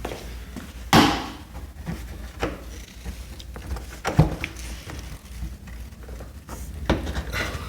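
Hard plastic knocks and thumps as a headlight housing is pushed and worked into its seat in the car's front end: a few separate sharp knocks, the loudest about a second in.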